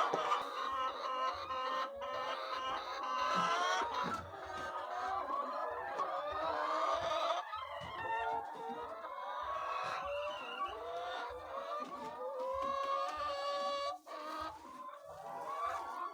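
A flock of chickens clucking and calling, many voices overlapping continuously.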